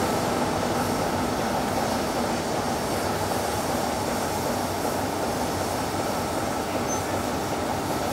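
Train running along the track: a steady rolling rumble of wheels on rails.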